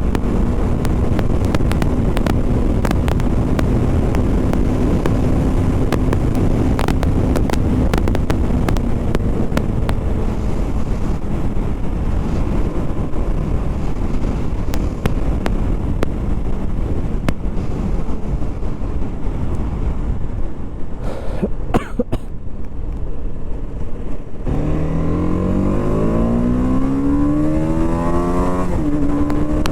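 BMW G 310 RR's single-cylinder engine running under way with heavy wind rush over the rider's microphone. Near the end the engine revs up with its pitch rising steadily, dropping briefly as it shifts gear before climbing again.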